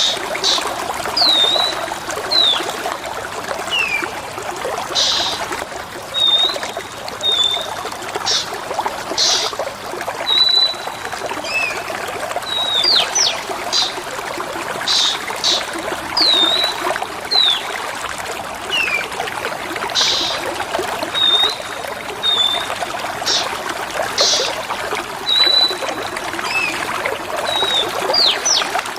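Steady trickling water under short, high bird whistles, slurred notes and sharp chips. The same sequence of calls loops about every ten seconds, the kind of water-and-birdsong therapy track used to stimulate a caged oriental magpie-robin to sing.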